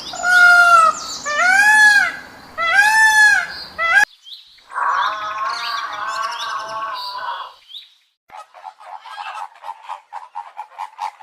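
Domestic fowl calling: three short arched calls, then one longer call, then a quick run of short high chirps, with abrupt cuts between them.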